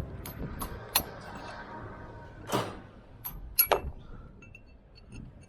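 Irregular sharp clinks and knocks of hard masonry material and tools being handled while bricks are taken off, with one scraping knock about two and a half seconds in.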